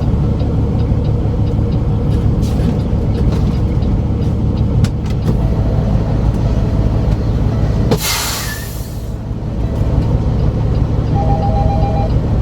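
Semi truck's diesel engine idling steadily, with a hiss of air from the brakes lasting about a second, about two-thirds of the way in. Near the end, a two-tone electronic beep repeats.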